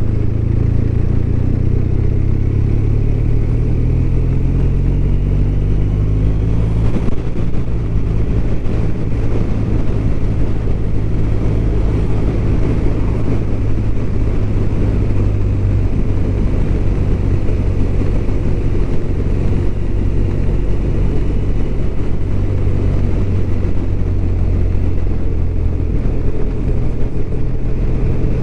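BMW R1200RT's boxer-twin engine running at road speed, rising in pitch as it accelerates through the first seven seconds or so, then holding steady, over a constant low rush of wind and road noise.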